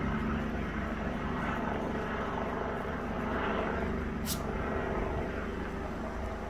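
National Guard helicopter circling overhead: a steady drone of rotor and engine. A brief high-pitched sound cuts in about four seconds in.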